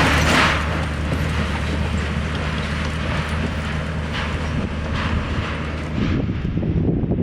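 Royal Enfield Classic 350 single-cylinder engine running at a steady speed under way, with wind and road noise over it; about six seconds in the steady engine note breaks up into rougher noise.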